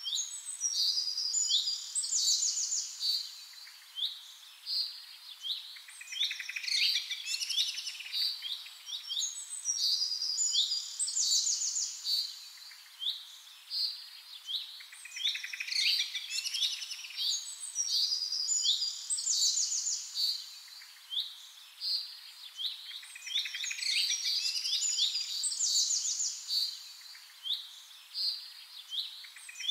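Birds singing: bursts of high chirps and fast trills that recur every four to five seconds.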